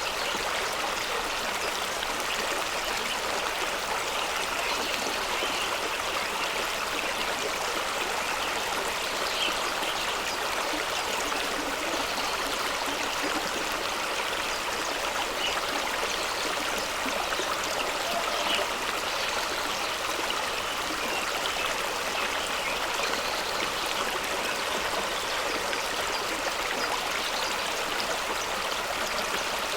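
Fast-running stream rushing and splashing over rocks, a steady watery hiss with small gurgles and splashes throughout.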